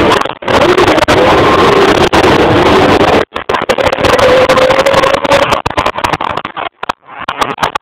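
Stunt motorcycle's engine running at high revs in a haze of tyre smoke, its pitch creeping upward through the middle. The recording is overloaded and distorted, cutting out briefly a few times.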